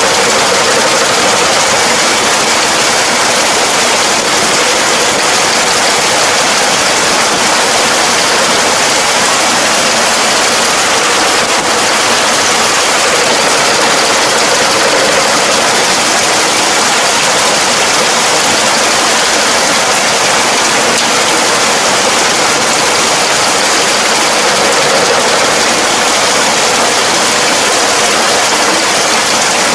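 Farm machinery running steadily: a loud, even rushing noise with no clear engine note.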